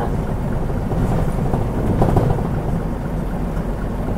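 Onboard sound of a Mitsubishi Fuso Aerostar KL-MP37JK city bus under way, its turbocharged 6M70 inline-six diesel running with a steady low rumble that eases slightly after about two seconds.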